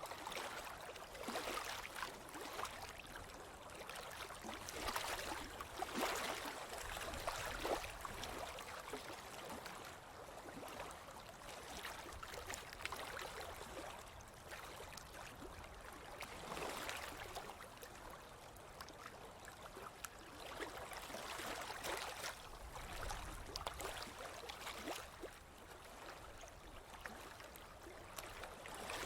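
Ocean surf on a beach: a steady hiss of breaking and washing waves that swells and eases every few seconds.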